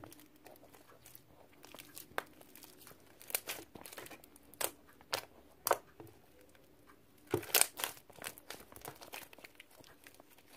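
Sticky glossy slime mixed with foam beads being squeezed and pulled by hand, giving irregular crackles and sticky pops, loudest in a cluster about seven and a half seconds in. The slime is super sticky, which makes the ASMR unsatisfying.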